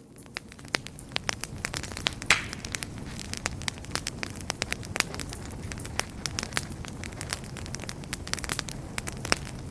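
Wood fire crackling, with frequent sharp pops and snaps over a steady low rumble of burning flames. One louder pop a little over two seconds in is followed by a brief hiss.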